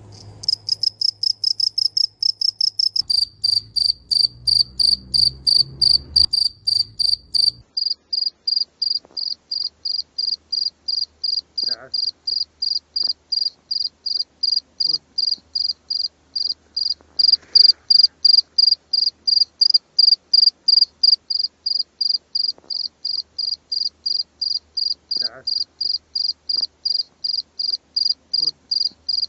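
A cricket chirping: a steady train of short, high-pitched chirps, about three a second. It starts about half a second in and shifts slightly lower in pitch around three seconds in.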